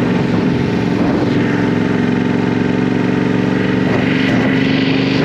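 Motorcycle engine running at a steady speed, its note holding level throughout.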